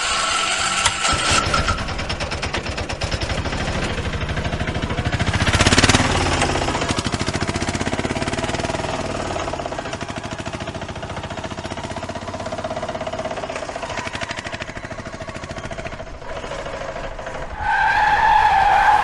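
Vehicle engine sound running steadily with a fast, even pulsing rattle, swelling briefly about six seconds in. A louder steady two-pitch tone comes in near the end.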